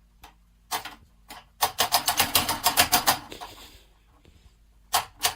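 A fast run of light, sharp taps or clicks, about seven a second, with a couple of single taps before it and a few more near the end.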